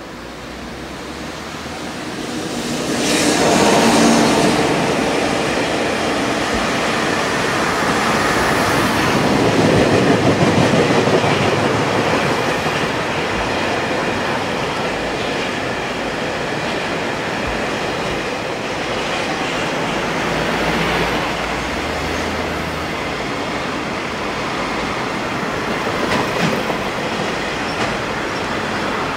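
A freight train passing close by. Its electric locomotive comes past about three to four seconds in, the loudest moment, and then a long string of container wagons rolls past steadily on the rails.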